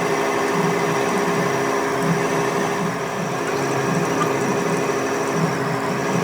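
A workshop machine running steadily, its low hum pulsing about twice a second.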